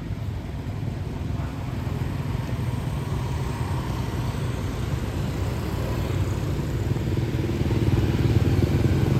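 Motorbike traffic: a steady low engine hum that grows gradually louder as it draws near.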